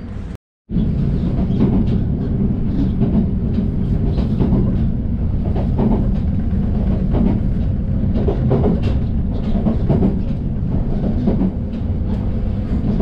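Inside a diesel railcar running along at speed: a steady low rumble of wheels and running gear, with irregular clacks from the rail joints. The sound cuts out for a moment just under a second in, then carries on.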